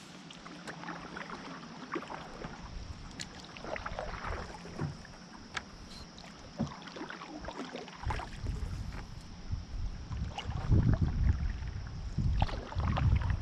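Small knocks and clicks around a canoe, with wind buffeting the microphone in gusts from about eight seconds in.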